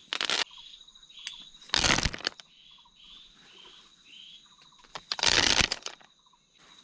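Three bursts of crackling rustle from dried corn being handled and scattered onto leaf litter, one near the start, one about 2 s in and one about 5 s in. Between them come a steady high insect drone and a short chirp repeating about twice a second.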